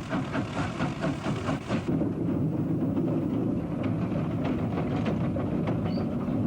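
Steam locomotive K160 working. Rapid exhaust chuffs come about four or five a second for the first two seconds, then give way to a steady low rumble of the train running, with a few light clicks.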